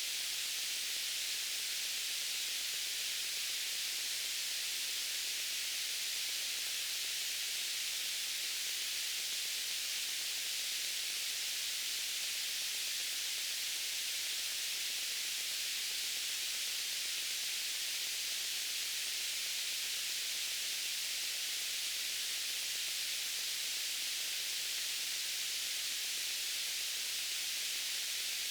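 Steady white noise: an even, high-pitched hiss that stays the same throughout.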